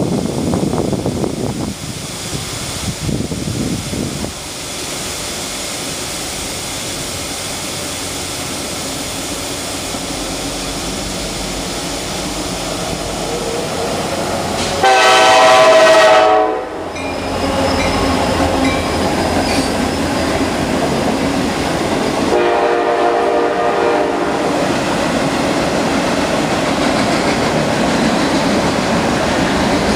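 Norfolk Southern intermodal train led by two Kansas City Southern locomotives approaching and passing, a steady rumble that builds. The locomotive horn sounds twice, a loud blast about halfway through and a quieter one about six seconds later, then the double-stack container cars roll by. Wind buffets the microphone in the first few seconds.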